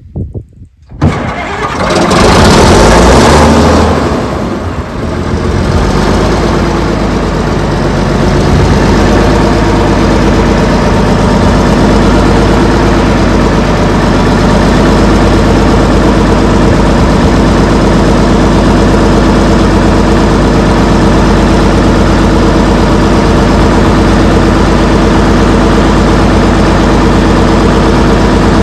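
Allis-Chalmers HD-21 bulldozer's diesel engine starting after standing unused: it catches about a second in and runs loud for a few seconds. It dips briefly, then settles into steady running by about six seconds.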